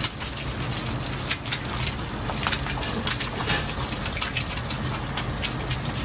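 Food frying, with irregular crackles and pops over a steady low hum from the stove.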